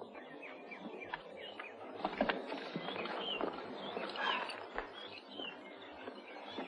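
Birds chirping in short, repeated calls over quiet outdoor ambience, with a few scattered sharp taps.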